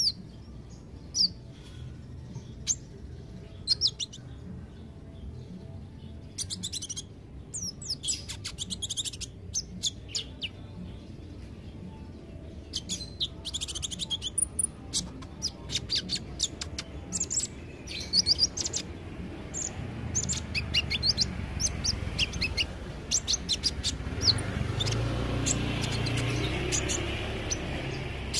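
Kolibri ninja, a small sunbird, singing a rapid series of thin, high chirps and twitters in quick runs, over a low background rumble that grows louder over the last few seconds.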